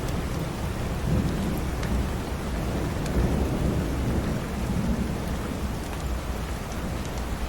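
Steady rainfall with a low rolling rumble of thunder beneath it, swelling and easing. A few faint sharp crackles, like a wood fire, come through now and then.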